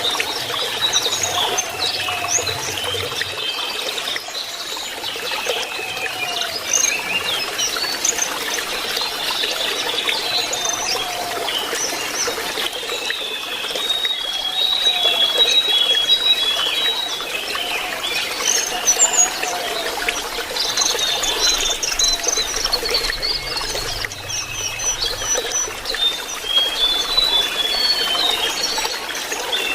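Lesser shortwing twittering in quick, high chirps and short trills, over steadily trickling water.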